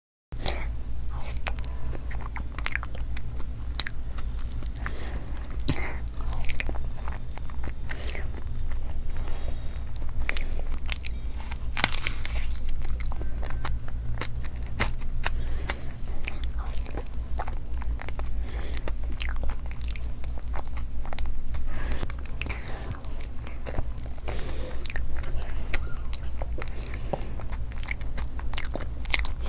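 Close-miked mukbang eating of dal and rice: chewing and biting, with many quick, irregular mouth clicks and crunches, over a steady low hum.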